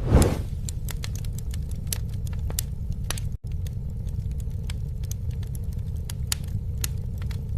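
Campfire burning: a steady low rumble of flames with sharp crackles and pops scattered all through, and a brief louder whoosh right at the start. The sound drops out for a split second about a third of the way in.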